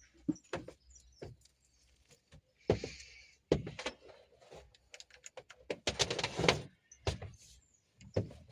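Irregular knocks and clunks of tools and parts being handled, with a short hiss about three seconds in and a louder clatter a little after the middle.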